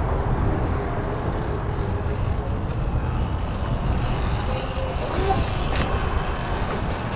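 Steady low rumble of outdoor street and wind noise, with faint voices.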